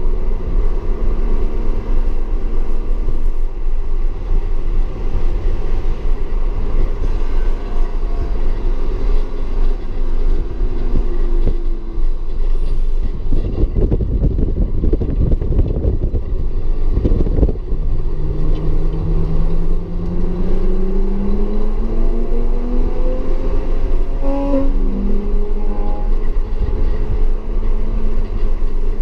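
Audi S4 engine under hard driving on a race track: a stretch of heavy rumble, then its pitch rises steadily under acceleration and drops suddenly at an upshift near the end.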